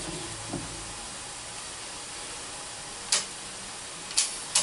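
SERDI valve-seat machine's pneumatic work head floating to find its center: a steady air hiss with three short, sharp puffs of air in the last second and a half as the float and lock valves work.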